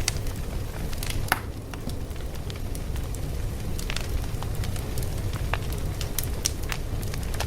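Fire crackling: a steady low rumble with sharp, irregular pops and snaps, a few of them louder.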